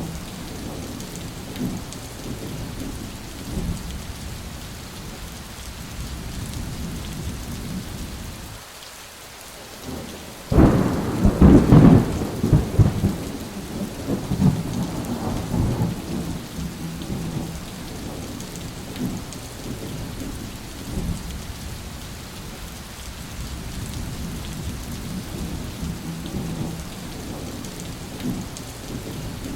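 Steady heavy rain with low thunder rumbling. About ten seconds in, a loud thunderclap cracks sharply and rolls off over the next several seconds.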